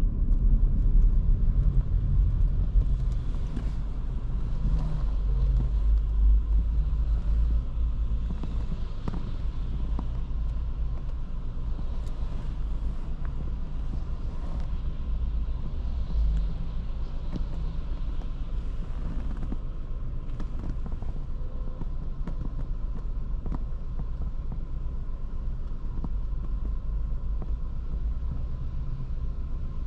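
2023 Škoda Kamiq's 1.0 TSI three-cylinder turbo petrol engine and tyres while driving in town: a steady low rumble, a little louder for the first few seconds, then even.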